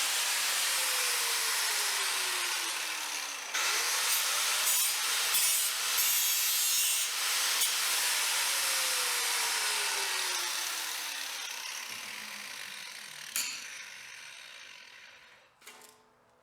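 Power grinder working sheet steel with a harsh grinding hiss, its motor pitch sinking twice as it slows. The grinding fades out after about thirteen seconds, followed by a few clicks.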